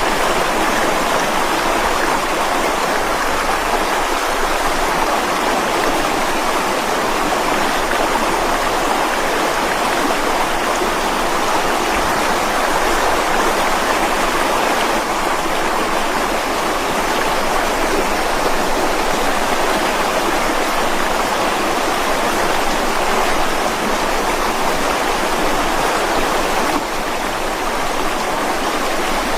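Mountain stream rushing over rocks: a steady, full sound of flowing water, with a slight brief drop in level near the end.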